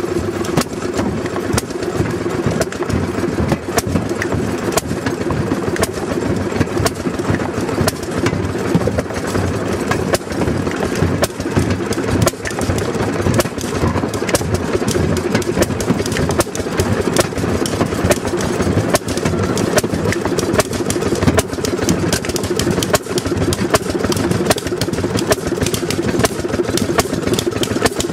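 Railroad speeder (track motor car) engine running steadily, with frequent sharp clicks and rattles through it.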